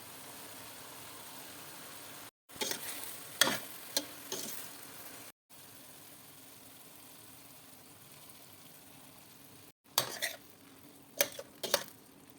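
Fajita chicken frying in a pan with a steady sizzle, stirred with a utensil that scrapes and knocks against the pan in two short spells, a few seconds in and again near the end. The sound drops out briefly a few times.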